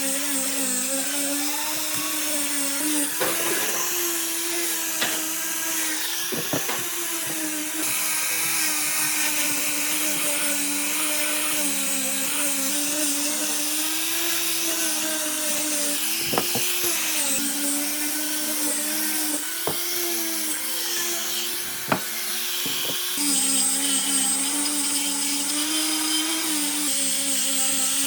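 Small high-speed electric power tool running steadily, its pitch wavering slightly, with a few sharp knocks.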